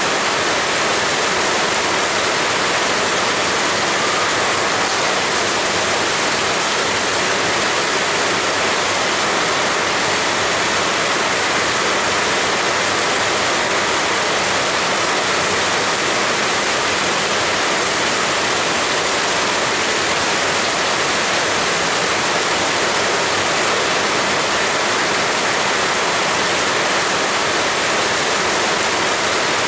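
Heavy rain falling without pause, a loud, dense, steady hiss.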